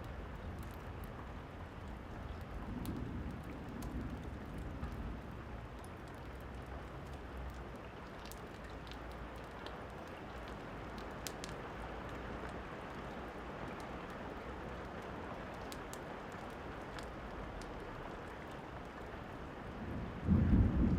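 Steady rain with sparse fire crackles and a soft rumble of thunder a few seconds in. Just before the end, a much louder roll of thunder begins.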